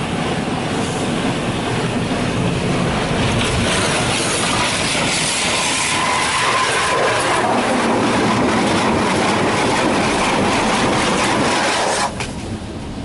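High-pressure rinse water from a touchless Water Wizard car wash spraying and drumming on the truck's body, heard from inside the cab. The spraying cuts off abruptly about a second before the end.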